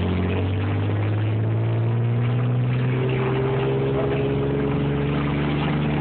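Ford F-150 pickup's engine running steadily, its pitch rising slowly as the truck picks up speed.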